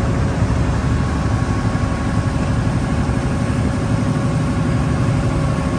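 River ferry's engine running steadily, a loud low rumble with a faint steady whine over it.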